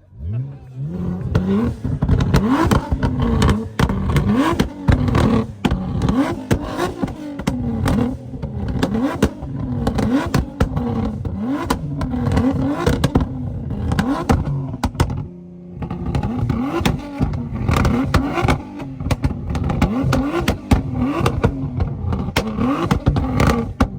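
A tuned car engine being revved hard again and again with quick throttle blips, its pitch shooting up roughly once a second. Sharp pops and bangs from the exhaust run through the revving, with a brief lull about two-thirds of the way through.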